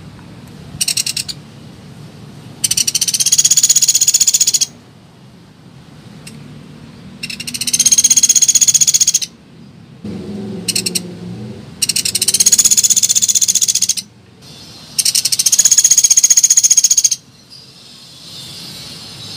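Pelatuk beras bird calls played as a lure recording: rapid, high chattering trills, each about two seconds long, repeated four times with short sharp bursts between them and a fainter call near the end.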